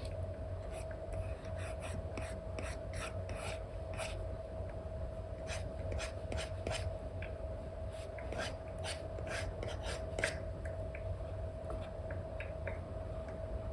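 Apple Pencil with an Elecom nib scratching across a paper-like screen film on an iPad, a run of short quick brush strokes, thickest in the middle. A steady hum runs underneath.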